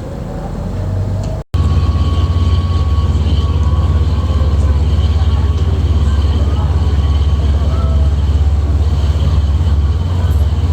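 A sightseeing boat's engine running steadily, heard on board as a loud low rumble with a faint steady whine above it. The sound drops out for a moment about a second and a half in, then comes back louder.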